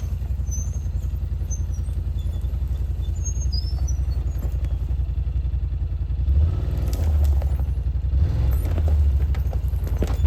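Side-by-side UTV engine running at a steady low pulse, then revving up and down in surges from about six seconds in.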